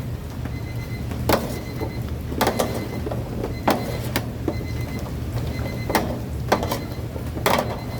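About nine sharp clacks and knocks at irregular intervals over a steady low hum, with faint high steady tones in the background.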